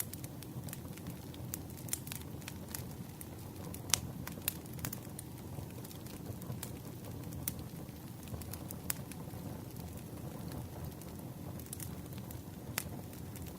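Campfire crackling: a steady low rush of burning wood with scattered sharp pops, the loudest about four seconds in.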